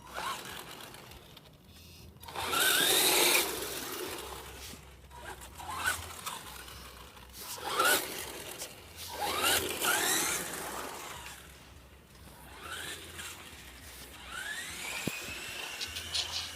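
Redcat Volcano RC car's motor whining up in pitch in about half a dozen short bursts as it accelerates, with tyre and ground noise alongside each burst.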